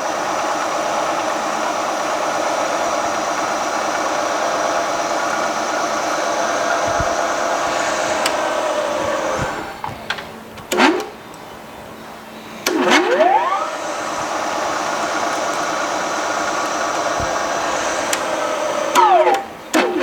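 A milling machine drilling into a very hard steel crankshaft, a steady loud machining noise. Near the middle the cut stops for a few seconds, with a clunk. It then starts again with a rising whine, and there are more clunks and rising whines near the end.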